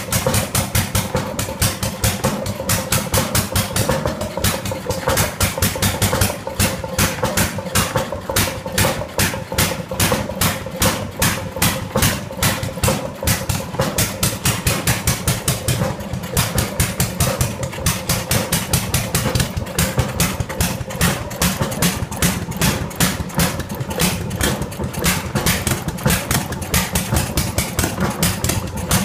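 Antique Moline Pump Company Eli stationary gas engine running, with sharp, evenly spaced exhaust beats about three to four a second and a few short irregular gaps in the firing.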